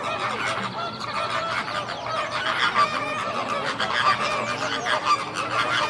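A flock of domestic fowl calling over one another: many short overlapping calls with no break.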